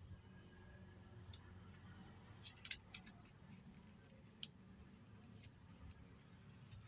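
Faint crackles and crisp ticks of a sheet of paper being handled and creased while folding a paper airplane, with a short cluster of sharp crackles about two and a half seconds in and one more near the middle, over a low steady hum.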